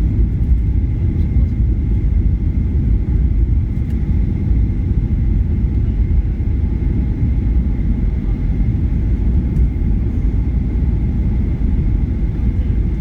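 Cabin noise inside a Jin Air airliner in flight: a steady low rumble of engines and rushing air, with a faint steady high tone above it.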